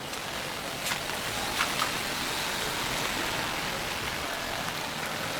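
Steady rain falling, an even hiss with a few sharp drip ticks about a second or two in.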